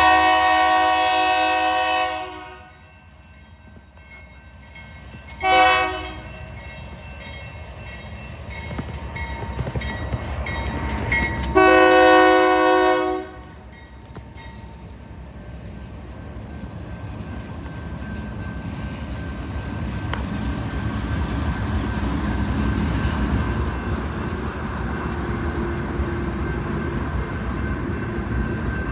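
Locomotive air horn sounding three blasts, a long one ending about two seconds in, a short one around six seconds and another long one around twelve seconds, typical of a train sounding for a grade crossing. After that, the rumble of the train grows steadily louder as it comes through.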